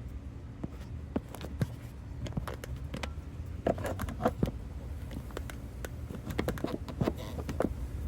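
Irregular clicks, taps and light scrapes of hand tools and parts being handled in an engine bay while a PCV hose is refitted and tightened, over a low steady rumble.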